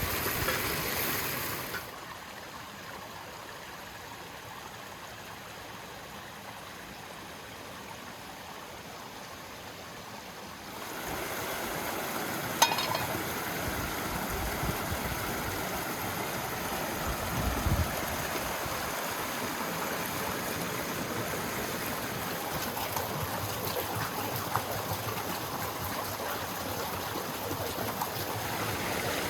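A river flowing steadily, heard as a continuous even rush of water that gets louder about eleven seconds in, with one sharp click near the middle.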